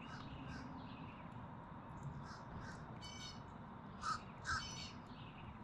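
Faint bird calls, a few short calls with the clearest coming about three to four and a half seconds in.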